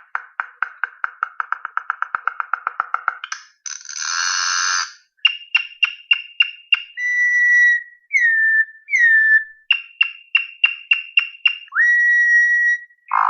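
A songbird singing a varied song: a fast, even trill, then a short harsh note, then bursts of quick sharp notes alternating with clear whistled notes, some held steady and some slurring down.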